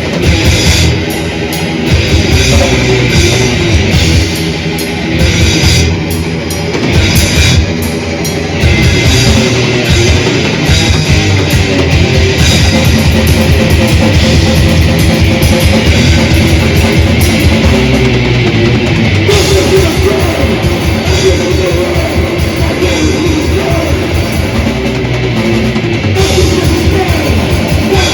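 Death/thrash metal band playing live: distorted electric guitars, bass and drum kit. The riffing is stop-start for the first several seconds, then from about eight seconds in it runs continuously over fast drumming.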